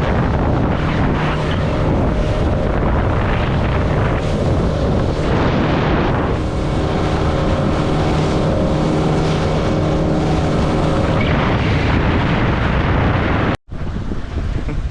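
Boat outboard motor running steadily at speed, with heavy wind noise on the microphone. Near the end the sound cuts out for an instant and resumes.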